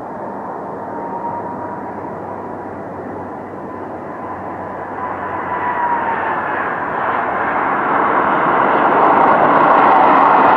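Aeroplane engine roar building steadily louder, with a high whine that slides down in pitch about six seconds in.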